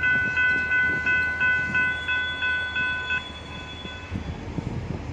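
Railroad grade-crossing warning bell ringing rapidly, about three strikes a second, then stopping a little over three seconds in. A low rumble rises near the end.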